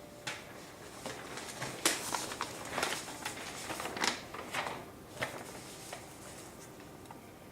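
Scattered light clicks, taps and rustles from small objects being handled, most of them between about one and five seconds in.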